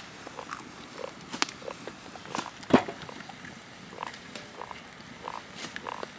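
Small wood campfire crackling, with scattered sharp pops and snaps, the loudest a little before halfway through.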